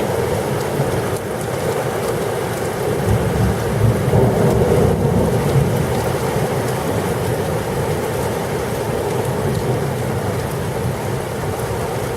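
Heavy rain pouring steadily during a thunderstorm, with a low rumble of thunder that swells about three to five seconds in.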